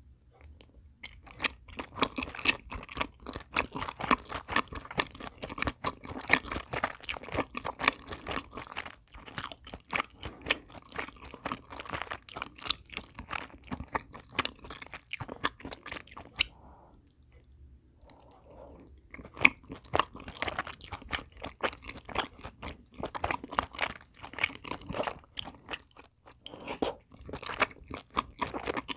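Close-miked chewing of chewy rice-cake balls glazed in brown-sugar syrup: rapid wet, sticky mouth clicks, breaking off for about two seconds past the middle before the chewing resumes.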